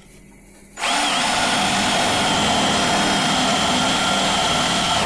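Power drill running a spot weld drill bit against the steel chassis, with a steady high whine. It starts about a second in and stops sharply after about four seconds. The worker suspects the bit is dull and needs sharpening or replacing.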